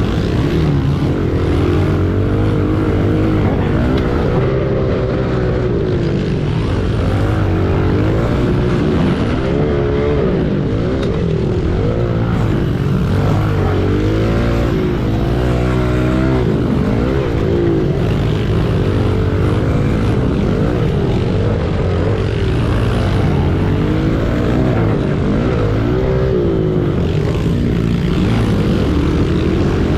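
Pit bike engines racing, revving up and falling off again every second or two, over a steady rush of noise.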